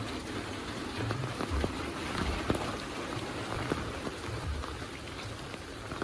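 Heavy rain falling steadily, with many individual drops ticking sharply close by and occasional dull low thuds.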